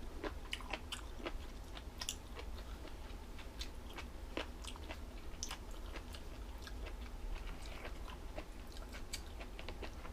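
A person chewing crunchy food close to the microphone: irregular crisp crunches and mouth clicks.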